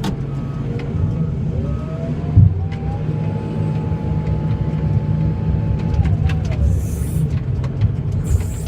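Tractor engine running steadily under load while plowing snow. A sharp knock comes a couple of seconds in, and a whine rises, holds for about three seconds and falls away.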